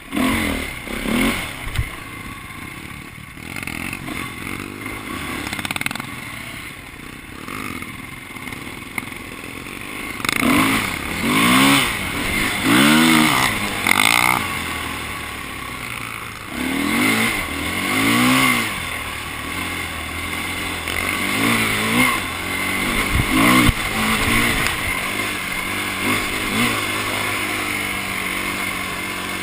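Dirt bike engine running, its pitch rising and falling in repeated swells of about a second each as it revs up and drops back, with steadier running between.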